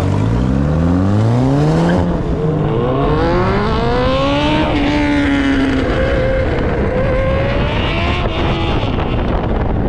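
Vehicle engine accelerating hard, its pitch climbing twice with a break between, as in a gear change, then dropping back and holding steadier.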